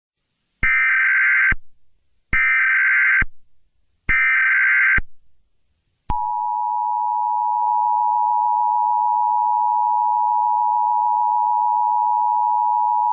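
Emergency Alert System tones: three short bursts of the screeching SAME header data tones that encode the alert, each about a second long with short gaps. About six seconds in comes the steady two-tone EAS attention signal.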